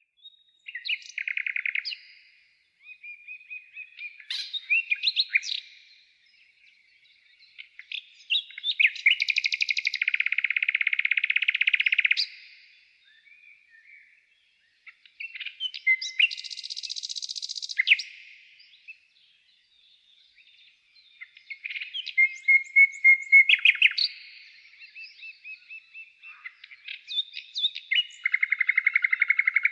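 A songbird singing in separate phrases of chirps and fast trills, each one to three seconds long, with short pauses between them.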